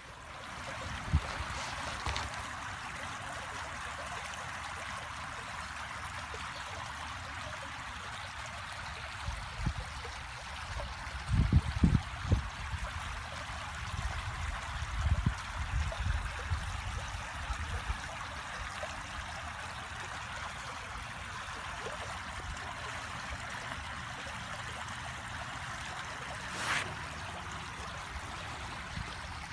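Small stream of running water flowing steadily, a continuous rushing trickle. A few low bumps come about a third of the way through and again midway, and there is one sharp click near the end.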